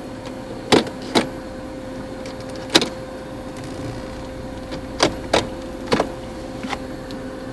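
A series of sharp clicks from controls being worked inside the cabin of a Mercedes W202 C240 while its V6 idles, over a steady hum from the running car.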